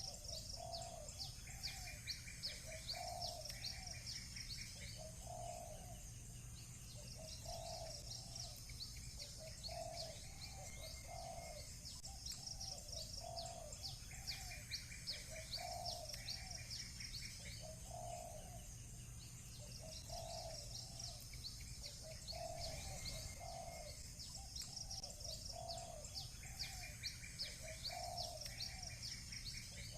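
Doves cooing over and over, about one coo every second or so, with small birds chirping high above them and a pulsed trill that comes in about every twelve seconds, over a steady low rumble.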